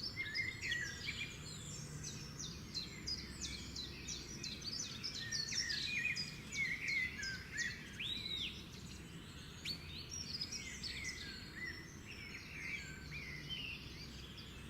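Many small birds chirping and twittering together: a dense, continuous chatter of short high calls and quick up-and-down notes, overlapping one another.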